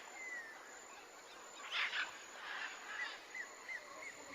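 Birdsong: a whistled note sliding down in pitch, a brief loud harsh burst about two seconds in, then a quick run of about five short chirps, over a faint hiss.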